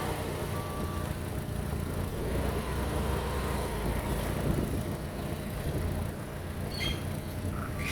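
Fiat Grande Punto 1.4 petrol engine (code 350A1000) idling steadily, with no revving. A short electronic beep sounds near the start.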